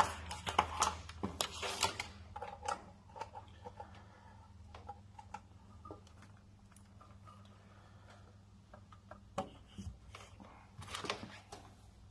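Handling noise: scattered clicks and brief rustles, busiest in the first two seconds and again near the end, over a steady low hum.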